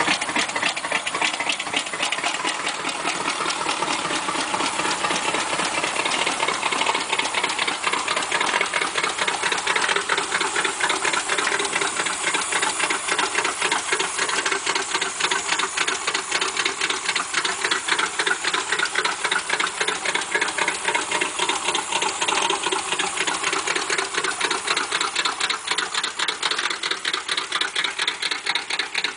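Hot-rod 350 V8 fed by three two-barrel carburettors idling steadily through short side-exit header pipes, a fast, even pulsing of exhaust beats.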